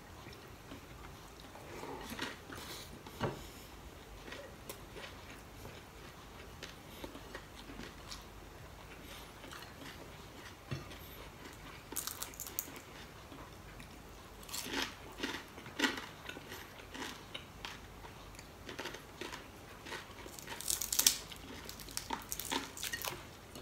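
A person chewing and crunching mouthfuls of crispy fried dried fish (danggit) with rice, with short crackles as the brittle fish is pulled apart by hand. The crunches come in scattered clusters, loudest near the end.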